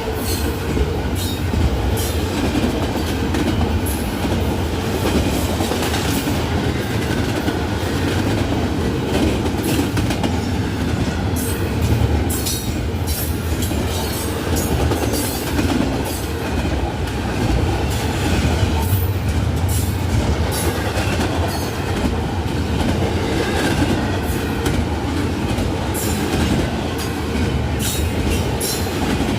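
Norfolk Southern intermodal freight train rolling past. A steady, loud rumble runs throughout, with frequent clicks from the wheels crossing rail joints.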